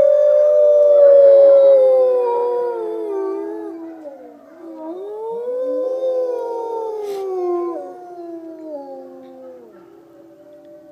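Several wolves howling together, their long overlapping howls at different pitches sliding downward. The chorus is loudest at first, swells again mid-way, and fades out near the end.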